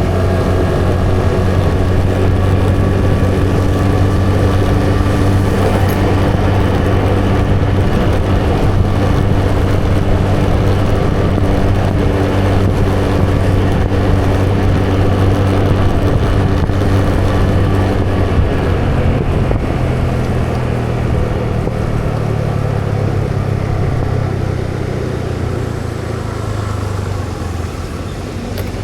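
A motor vehicle's engine running steadily under road and wind noise, heard from on board while riding. Its engine note shifts about two-thirds of the way through, and the sound eases off slightly near the end.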